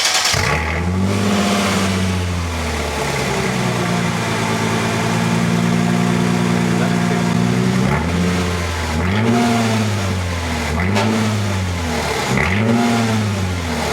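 Mercedes-Benz CLK 320's M112 V6 running just after starting. It idles high at first and settles to a steady idle, then about halfway through it is revved in four quick blips, each rising and falling.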